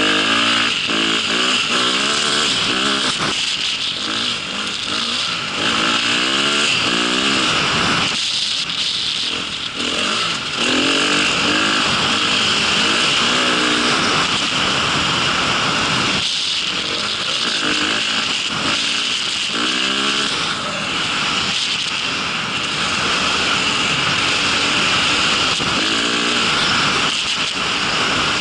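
Engine of a small vehicle, ridden with repeated revving: its pitch climbs and drops again and again over a steady hiss.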